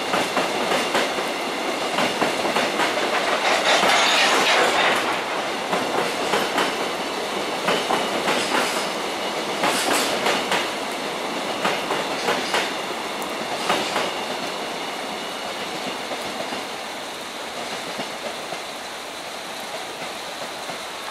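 Cement tank wagons of a passing freight train: wheels clicking over rail joints, with a faint high wheel squeal. Loudest a few seconds in, then growing quieter over the last several seconds.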